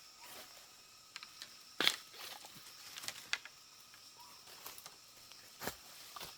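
Irregular crackles and knocks of someone moving and working in forest undergrowth, the sharpest about two seconds in, over a steady high insect hum.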